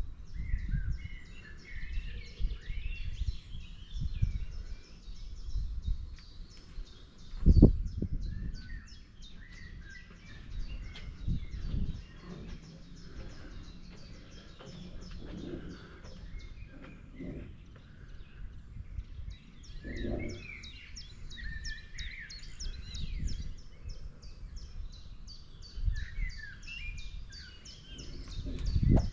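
Forest birds chirping and singing in many short, overlapping calls, over a low rumble with soft thuds and one sharp thump about seven and a half seconds in.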